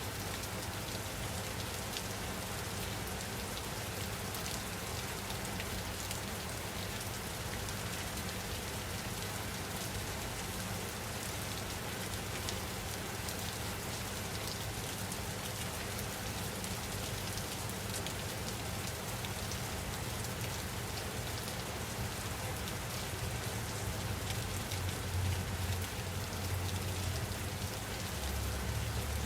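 Steady rain falling: an even hiss with scattered drop ticks. A low rumble underneath grows a little stronger near the end.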